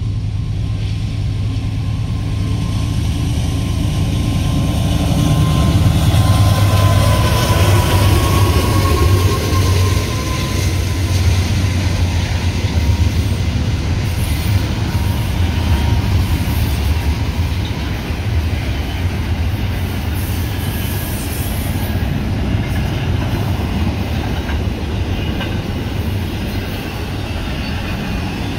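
Union Pacific double-stack intermodal freight train passing close by. The lead diesel locomotives' engines rumble loudest about six to ten seconds in, with a thin whine that falls slightly in pitch as they go by. Then comes the steady rumble and clatter of loaded well cars rolling past.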